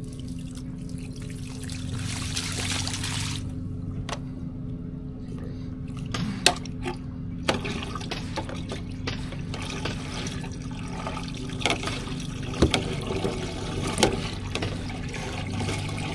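Septic tank being pumped out by a vacuum truck: liquid running and trickling, over a steady mechanical hum, with a few sharp knocks.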